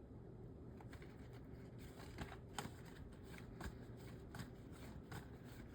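Faint shuffling and handling of tarot cards, with scattered sharp clicks and flicks from about two seconds in.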